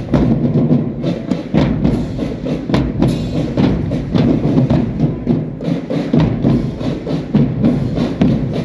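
Marching drum band playing, with a dense pattern of drum strokes and sharp stick clicks over a fuller band sound.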